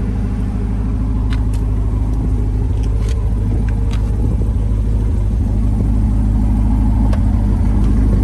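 Chevrolet Corvette C8 Stingray's 6.2-litre LT2 V8 idling steadily while still warming up after a cold start, a deep continuous rumble. A few light clicks sound over it.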